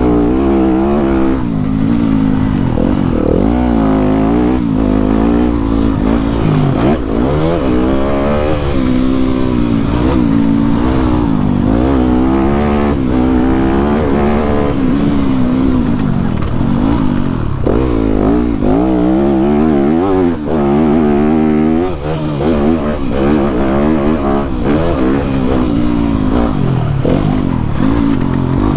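Yamaha YZ250F dirt bike's single-cylinder four-stroke engine being ridden, revving up and dropping back again and again.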